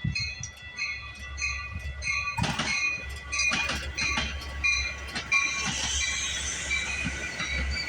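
Metra commuter train arriving: a bell rings steadily at about two strokes a second over a low rumble, and from about two and a half seconds in wheel clicks sound as the cars roll over rail joints. Near the end a high hiss and a faint wavering squeal come in as the train slows for its station stop.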